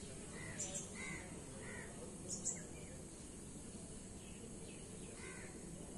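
Outdoor background with a steady low hum and several short bird calls: three or four in the first two seconds, a couple of brief high chirps among them, and another call about five seconds in.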